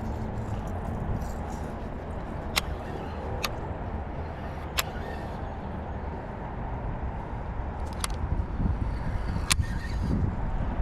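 Wind buffeting the microphone in a steady low rumble, with about five sharp clicks scattered through it.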